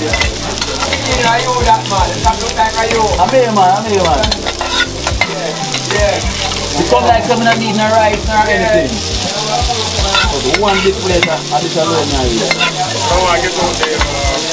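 Vegetables and small pieces of food frying in a non-stick pan, a steady sizzle, while more pieces are added to the hot pan.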